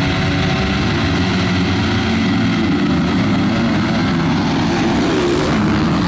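Motocross dirt bike engines running and revving on the track, several at once, loud and steady.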